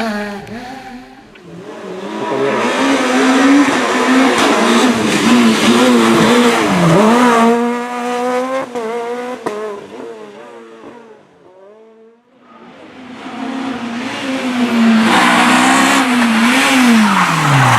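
Two rally cars pass one after the other, engines revving hard with pitch rising and dropping through gear changes. The first swells up and fades away into a short lull; the second builds and is loud near the end, its engine note falling steeply as it lifts off.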